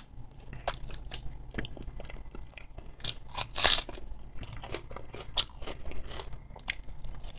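A person chewing a mouthful of oven-baked potato wedge close to the microphone. Irregular small mouth clicks and smacks are heard, loudest a little after three seconds in.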